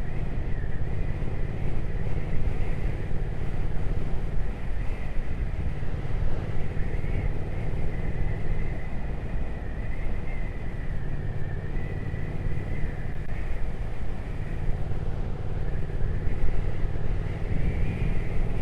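Triumph Speed Twin 1200's parallel-twin engine running steadily while riding, with wind rush over the microphone; the engine note eases off and comes back a few times.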